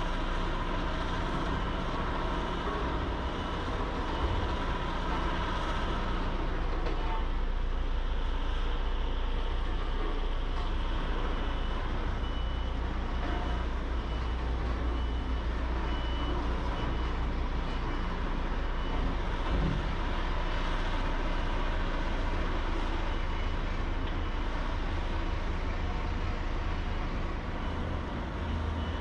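Heavy construction machinery running steadily with a deep diesel engine drone. About halfway through, a reversing alarm gives a series of short high beeps.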